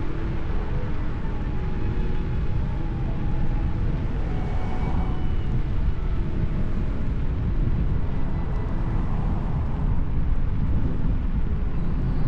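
Wind buffeting the camera microphone while riding an electric unicycle: a steady low rumble, with faint steady tones underneath.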